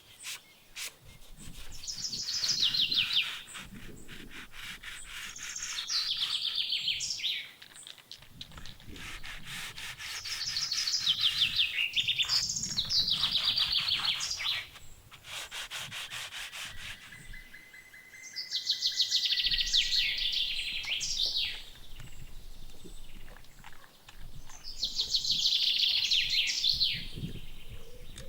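A songbird repeating a fast, trilled song phrase about six times, a few seconds apart, over scattered clicks and rubbing sounds.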